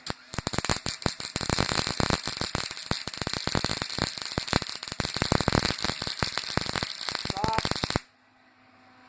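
Welding arc crackling and spitting in a steady run of sharp crackles for about eight seconds, then cutting off suddenly when the arc is broken. It is being run with no shielding gas.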